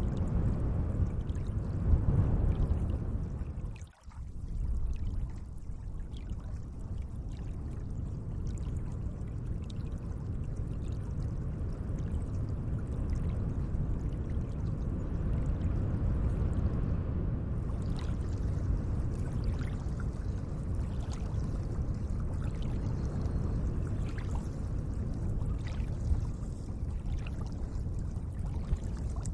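Gentle water at a lake's edge, lapping and trickling in a steady wash. It drops away briefly about four seconds in, and small drips and ticks are scattered through the second half.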